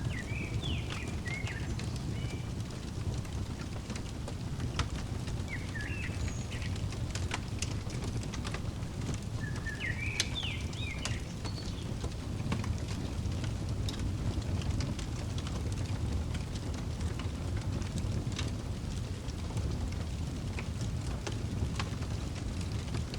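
Wood fire crackling with scattered sharp pops over a steady low rumble, while a small bird chirps in short bursts a few times.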